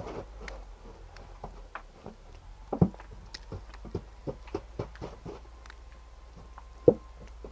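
Snow shovelling: irregular crunches and knocks of a shovel working in snow, with two heavier thuds, one about three seconds in and one near the end.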